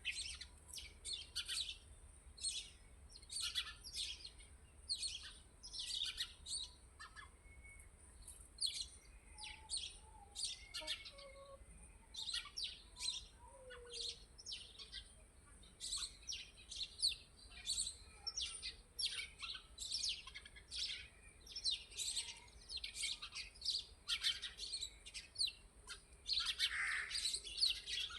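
Birds chirping: a dense run of short, high chirps, several a second, over a faint steady hiss.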